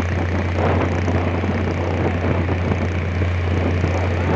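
Small speedboat's engine running steadily at high speed, a constant low drone under a dense rush of water and wind noise.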